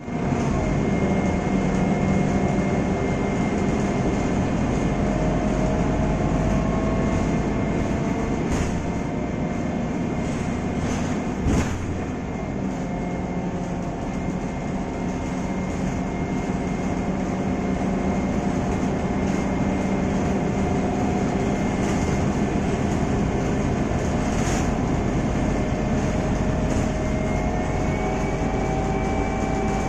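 Cabin noise inside a moving Scania K320iA articulated bus: a steady diesel engine and road rumble with faint whining tones that drift slightly in pitch. A few sharp rattles or knocks come through, the loudest about twelve seconds in.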